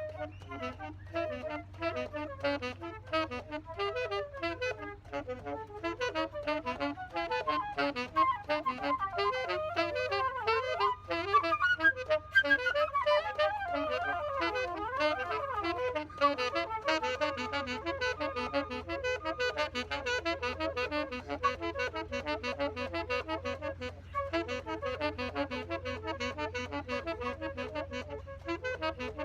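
Live instrumental music from two musicians jamming: quick runs of notes with melodic lines rising and falling, busiest in the middle.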